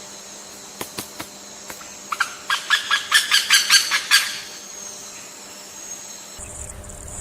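A bird giving a quick series of about ten short, harsh calls lasting around two seconds, over a steady high-pitched whine, with a few sharp clicks just before.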